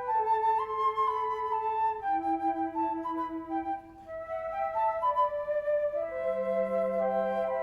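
Instrumental music: a flute playing a slow melody of held notes, pausing briefly just before the middle, with a lower accompanying note coming in about six seconds in.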